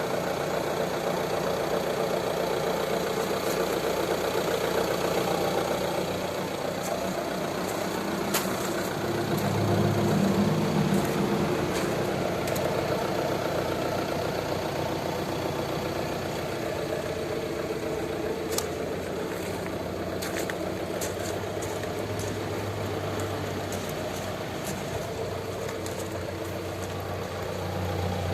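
A motor running steadily, with a brief louder surge about ten seconds in and scattered light clicks.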